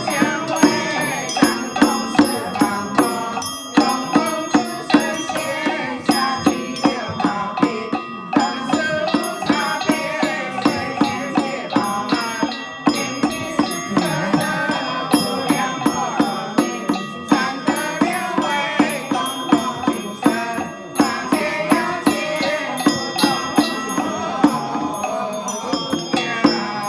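Group chanting of Buddhist-style scripture and mantras, paced by a wooden fish struck at a steady beat of about two strokes a second, with a bell ringing now and then.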